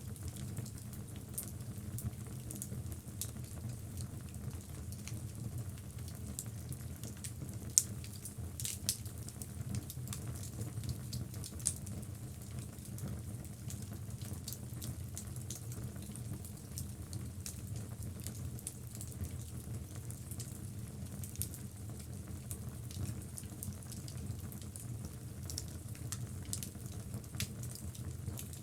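Wood logs burning in a fireplace: a steady low rumble of fire with frequent small crackles and pops, and one sharp pop about eight seconds in.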